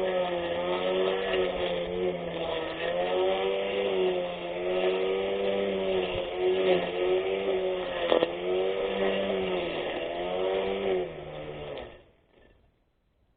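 24V brushless electric lawn mower running with a steady motor whine whose pitch sags and recovers again and again, then cuts off about twelve seconds in.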